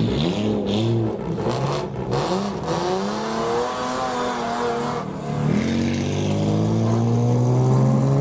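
Modified car engine revving in quick blips, pitch rising and falling, then accelerating with one long steady rise in pitch from about five and a half seconds in.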